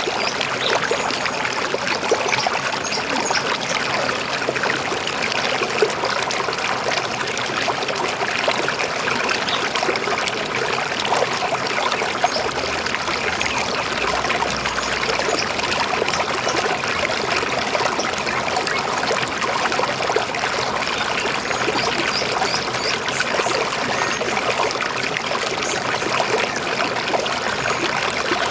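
River water flowing and gurgling steadily over stones, a continuous babbling rush.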